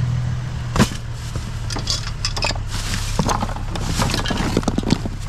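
Small pieces of scrap metal clinking and clattering as they are picked up and dropped, over a steady low engine hum.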